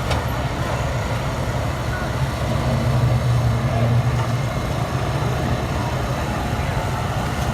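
A motor vehicle engine running steadily, low-pitched, growing slightly louder about three seconds in.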